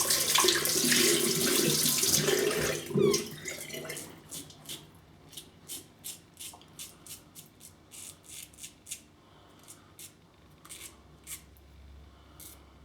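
A tap runs for about three seconds, then stops. After that comes a run of short scraping strokes, about two a second: a three-piece safety razor (Global Shave Club Rain, Gillette Silver Blue blade) cutting through lathered stubble.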